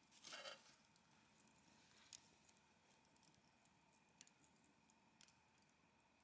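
Faint wood campfire crackling, with a short hiss about half a second in and a few scattered sharp pops of burning firewood.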